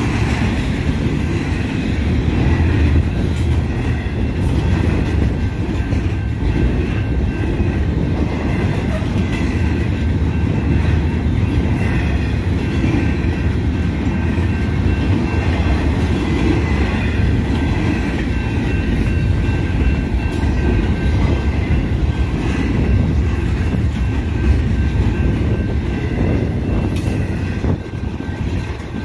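Double-stack intermodal train's container well cars rolling past at a grade crossing: a steady, loud low rumble of steel wheels on rail, with occasional clicks.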